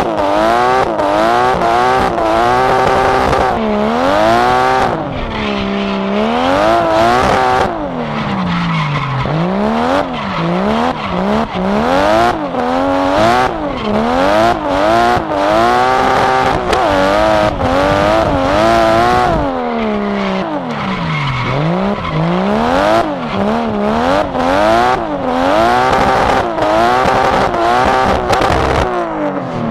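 Drift car's engine revving hard and dropping back again and again, its pitch swinging up and down every second or two, as the car is driven sideways. Tyre squeal runs under it.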